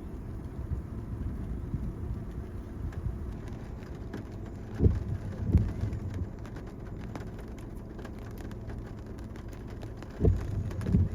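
Car driving, a steady low road rumble heard from inside, broken by short low thumps that come in pairs about five seconds in and again near the end.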